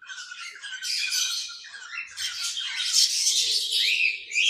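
A flock of budgerigars chattering and squawking, a dense, continuous run of high chirps and harsh calls that grows busier after about two seconds.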